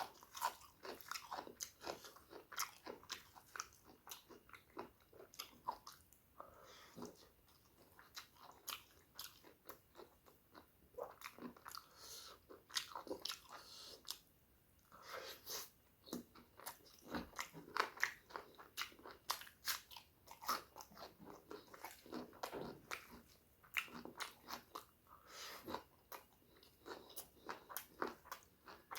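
A person chewing and biting a pork curry meal close to the microphone: a dense, irregular run of small wet mouth clicks and crunches.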